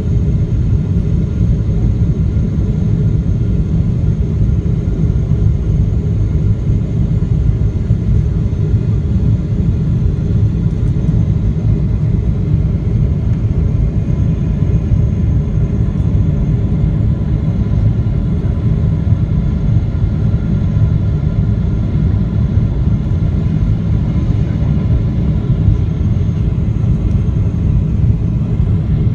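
Steady cabin rumble of a Boeing 777-300ER in flight: its GE90 engines and the airflow over the fuselage, with faint steady whining tones above the rumble.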